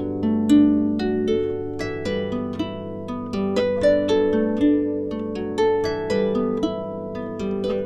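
Instrumental background music of plucked, harp-like notes in a steady melody over held chords.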